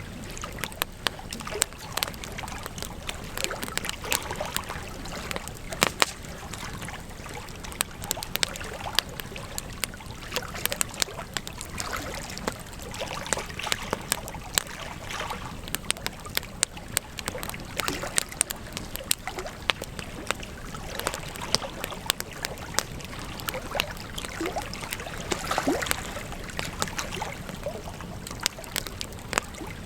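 Campfire crackling: frequent, irregular sharp pops and snaps of burning wood over a steady hiss of flames.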